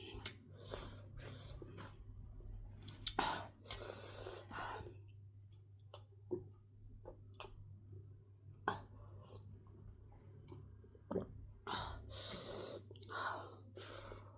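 Close-up eating sounds of a person working through very spicy smoked pork chilli: chewing and sharp mouth clicks, with several hissing breaths drawn through the mouth against the chilli heat. A low steady hum runs underneath.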